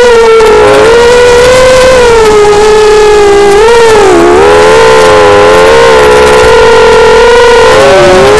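Whine of a ZMR250 racing quadcopter's four DYS BE1806-2300 brushless motors in flight. The pitch wavers with throttle and dips sharply twice, about four seconds in and again near the end, as throttle is chopped and picked up again.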